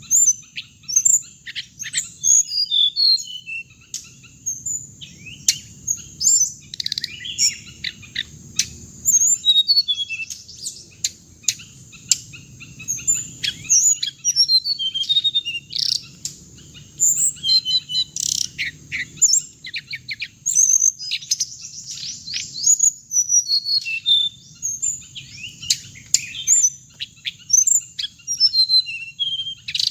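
Songbird known in Vietnamese as hồng hạnh singing: a fast, busy run of high chirps, trills and twitters with short pauses, over a faint low hum.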